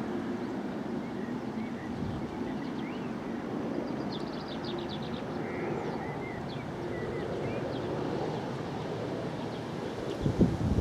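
Steady, distant rumble of jet aircraft engines, with birds chirping now and then over it. A gust of wind hits the microphone near the end.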